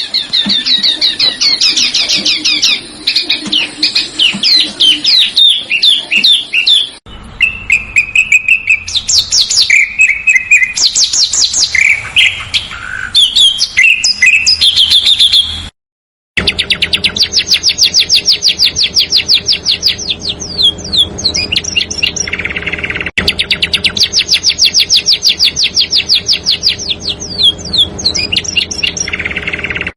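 Recorded small songbirds singing dense, rapid trills and runs of fast repeated high chirps, as used to tutor competition birds. The song comes in edited segments with a brief silent break about 16 seconds in, and a low steady hum sits under the later part.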